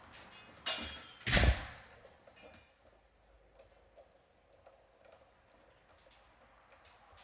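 Two short scraping noises about a second in, the second one louder and longer, followed by faint scattered clicks and ticks.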